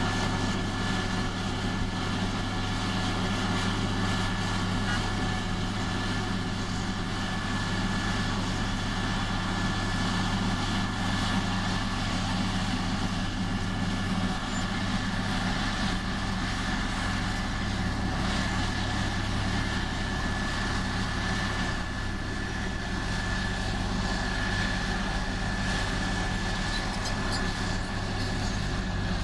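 Diesel engine of a heavy earthmoving machine running steadily at a constant speed, with a steady high whine above the low engine note.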